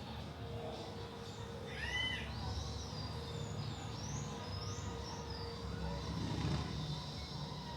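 Birds chirping: a few short, arched chirps, one lower call about two seconds in and a quick series of higher chirps in the middle, over a steady low rumble.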